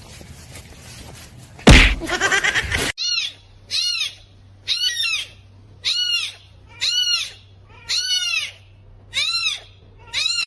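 A loud thump about two seconds in, then a kitten meowing over and over: about eight high calls, roughly one a second, each rising and falling in pitch.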